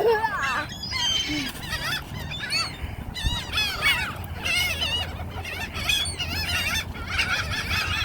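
A flock of birds calling over one another, many short, high, arching calls overlapping.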